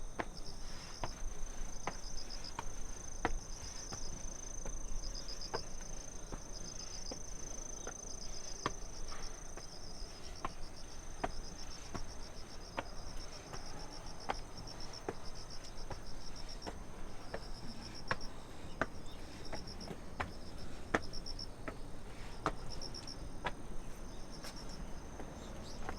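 Crickets chirping in repeated short pulses over a steady high-pitched insect buzz. Against this, footsteps tap evenly at a walking pace, a little over one a second.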